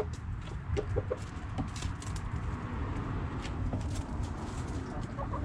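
Backyard hens clucking: a few short clucks about a second in and again near the end, over a steady low rumble.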